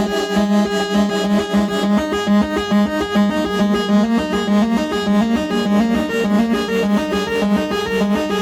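Eurorack modular synthesizer playing a fast, repeating sequence of short pitched notes, stepping up and down several times a second, with no drums.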